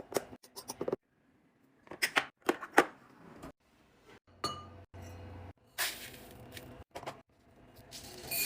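Hard containers clinking and tapping as they are handled and set down during restocking: a quick series of short clinks and clicks, some ringing briefly, broken by sudden gaps where clips are cut together.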